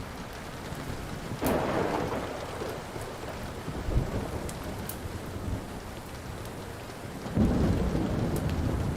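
Steady rain with thunder: a sharp crack about a second and a half in that rolls on into rumbling, a shorter rumble around four seconds in, and a longer, louder rumble beginning near the end. Scattered faint pops from a crackling wood fire sit on top.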